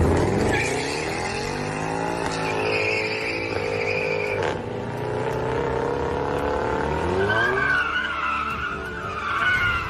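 Car tyres squealing in a long skid over a running engine, the squeal wavering in pitch and the engine note rising and falling.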